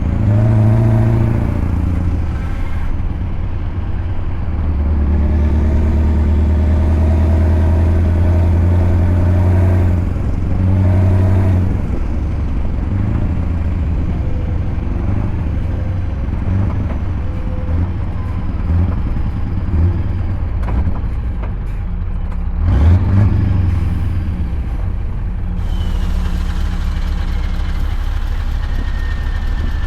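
Scania V8 diesel truck engine running under load, its low drone shifting up and down in pitch several times as the revs change, with a few brief knocks about three-quarters of the way through.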